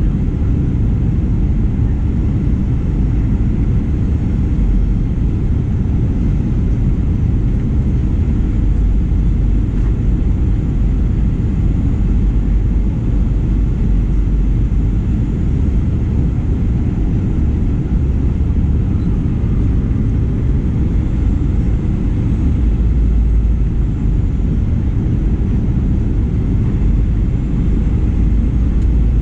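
Steady low rumble inside the cabin of a Boeing 737-900ER: engine and airflow noise with no distinct events.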